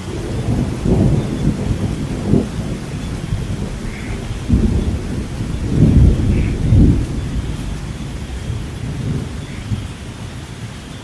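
Thunder rumbling over steady rain, in several deep rolls that peak about six to seven seconds in and then fade back to the rain.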